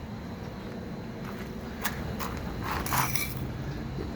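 A few short, light clinks and taps at irregular moments over a steady low background hum.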